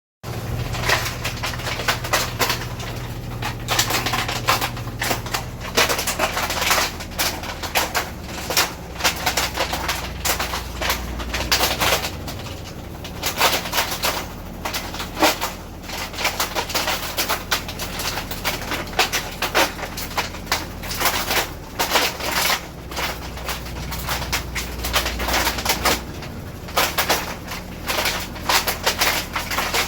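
Brastemp washing machine in its spin cycle making an abnormal noise: a fast, irregular clattering of knocks over the low hum of the spinning drum.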